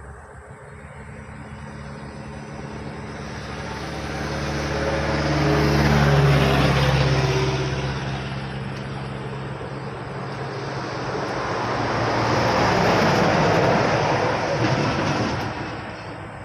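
Two road vehicles passing close by, one after the other. The first swells up with an engine note that drops in pitch as it goes by; the second is mostly a rush of tyre noise that rises and fades.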